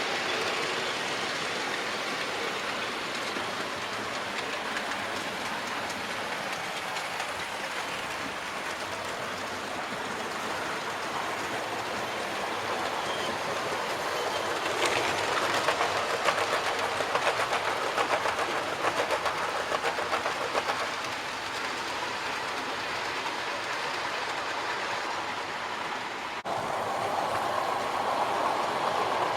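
Model trains running on a layout's track, a steady rolling rattle of wheels on rail. It grows louder with rapid clicking for several seconds in the middle as a train comes close, and the sound changes abruptly near the end.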